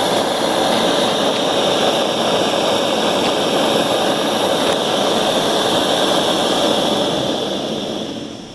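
A steady machine hiss and whir that dies away over about a second near the end.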